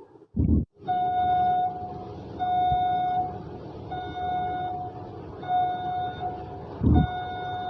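Battery-powered toy vehicle's electronic sound effect: the same tone beeps over and over, about once every second and a half, over a steady low rattling hum. There is a loud thump just after the start and another near the end.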